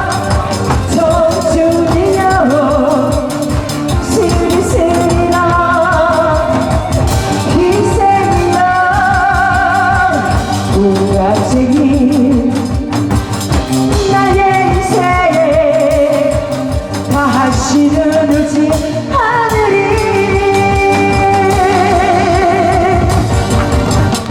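Amplified live singing over a backing track with a steady beat, the voice holding long wavering notes with vibrato.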